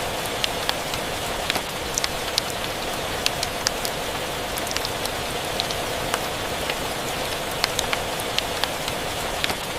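Steady rain hiss mixed with the scattered sharp crackles and pops of a wood fire, a few each second.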